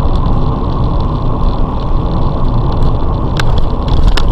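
Steady road and engine noise of a moving car, heard through a dashcam's microphone inside the cabin, with a few sharp clicks near the end.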